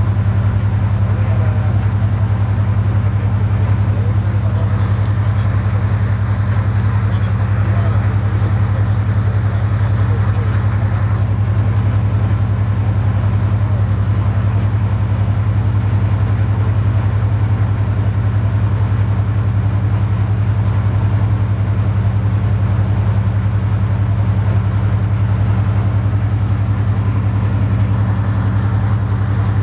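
Napier Deltic two-stroke diesel engine of a Class 55 Deltic locomotive running steadily at idle after start-up, a constant low hum.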